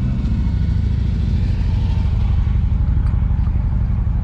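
Motorcycle engine idling close by: a steady low rumble with a rapid, even pulse.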